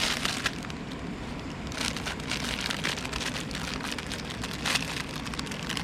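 Wood campfire crackling: a dense run of small pops and crackles, thicker in stretches from about two seconds in.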